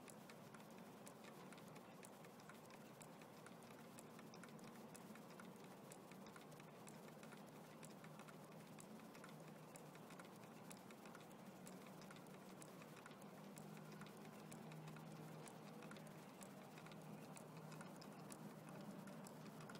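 Small solar-heated Stirling engine running, faint and steady: a quick run of light mechanical ticks over a low hum.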